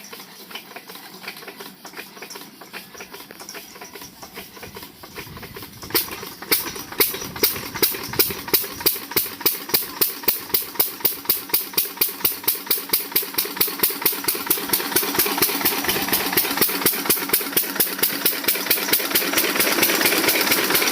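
12 hp single-cylinder diesel water-pump engine being started: quiet regular ticking for about six seconds as it is turned over, then it fires and runs with loud, evenly spaced exhaust beats about three a second that quicken and blend into a steady run as it comes up to speed.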